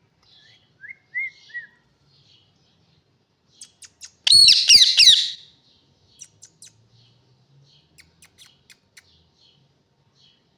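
A parrot calling. It gives a few short whistled chirps about a second in, then a loud, harsh burst of squawking calls for about a second around four seconds in, followed by scattered sharp clicks.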